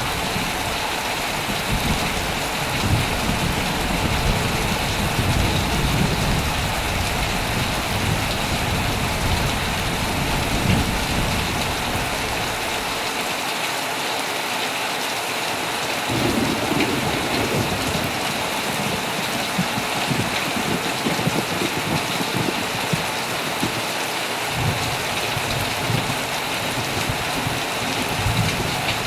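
Heavy rain falling steadily on a tent, with thunder rumbling low in rolling waves through most of it, the rumble dropping away for a few seconds a little before the middle.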